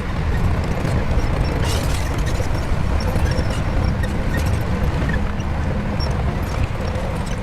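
Shantui bulldozer's diesel engine running steadily, with scattered faint clicks over it.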